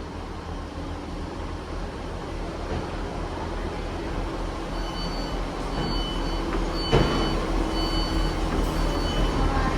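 Class 158 diesel multiple unit's underfloor engines rumbling steadily at the platform, growing slowly louder. From about halfway through, a run of short two-tone beeps repeats roughly once a second, typical of its door-warning beepers, with a single sharp knock near the end.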